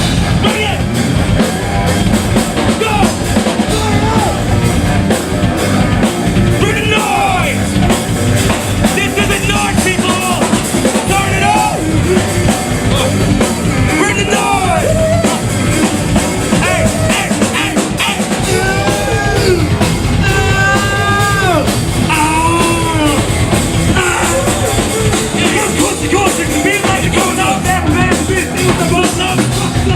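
Heavy metal band playing at full volume: distorted electric guitars and a driving drum kit, with a lead line that bends up and down in pitch over the top.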